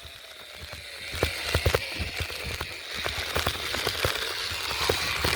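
A water bottle wedged into a bicycle wheel's spokes, clacking rapidly and unevenly as the wheel turns, a rattle that sounds like a motorcycle. It grows louder over the first couple of seconds.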